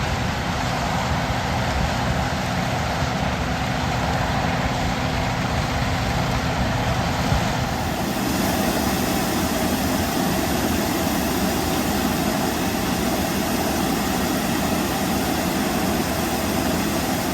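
An engine idling steadily as it warms up, its tone shifting about eight seconds in.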